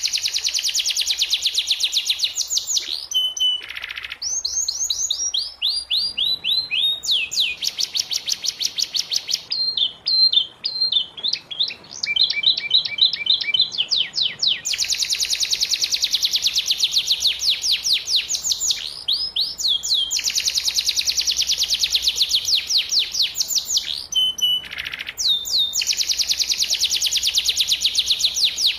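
Domestic canary singing a long, unbroken song of rapid trills. Each phrase is a fast run of repeated sweeping notes, and the song switches to a new trill every few seconds.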